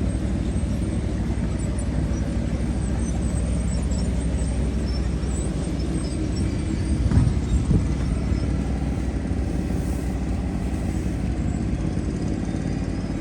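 Steady low outdoor rumble, with a few brief knocks about seven to eight seconds in.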